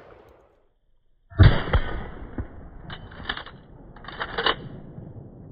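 A single loud 12-gauge shotgun blast from a short-barrelled Remington 870, about a second and a half in, followed by a rumbling tail and a few softer scraping noises.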